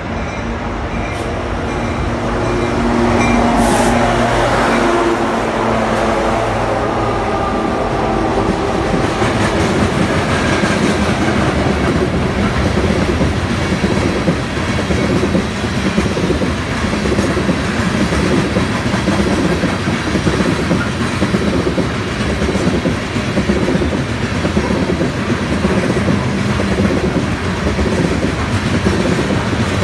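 BNSF freight train passing close. The diesel locomotive's engine drone is loudest a few seconds in and drops in pitch as it goes by. Then comes the steady rolling clatter of freight-car wheels over the rail joints.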